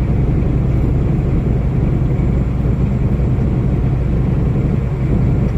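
Steady low rumble of a moving vehicle heard from inside the cab: engine and road noise.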